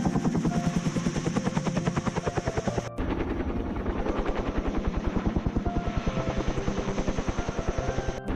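Helicopter rotor blades chopping in a fast, steady rhythm, with a brief dropout about three seconds in.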